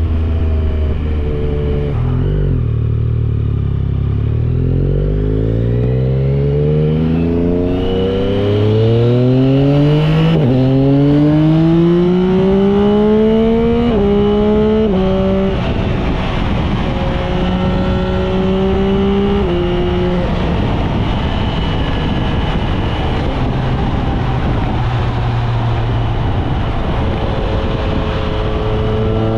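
Yamaha Tracer 9 GT's 890 cc inline-three through an aftermarket Dominator exhaust, ridden hard: revs fall off at first, then climb through the gears in long rising pulls with quick upshifts that snap the pitch down. It then holds a steady engine note, shifts again, and builds revs near the end.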